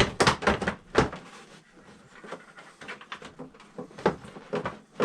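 Hard plastic motorcycle fairing knocking and clicking as it is handled and worked loose: a quick run of knocks in the first second, then scattered lighter clicks.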